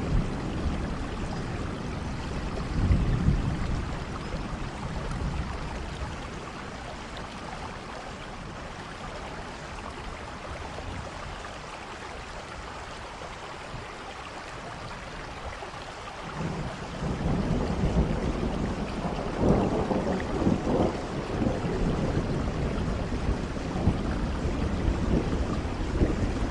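Steady rain with rolling thunder: a low rumble about three seconds in, a quieter stretch of rain alone, then a longer, louder rumble of thunder building from about two-thirds of the way through.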